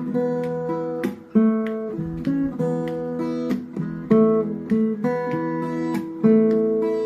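Acoustic guitar playing an instrumental passage with no singing: picked notes and strummed chords, each struck sharply and left to ring.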